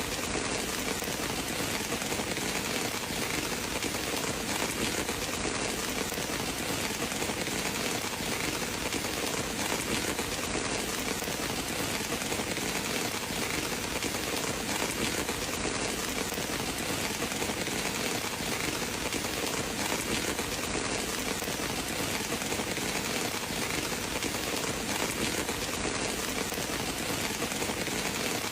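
Steady, even rain, with no let-up or change.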